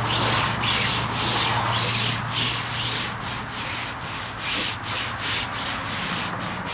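Scrubbing of wet, lathered boat canvas during cleaning: rhythmic back-and-forth scraping strokes, about two a second. A steady low hum runs underneath.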